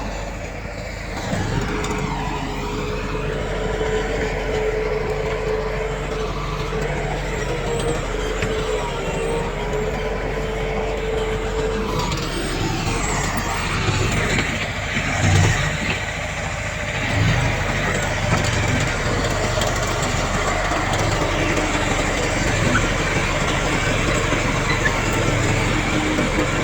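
Heavy diesel earthmoving machinery running under load, with a steady whine that stops about halfway through and a louder knock about 15 seconds in.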